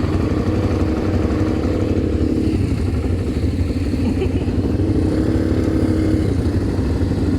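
ATV engine running under way, with a steady low rumble; it revs up for the first couple of seconds, eases off, and picks up again about five seconds in.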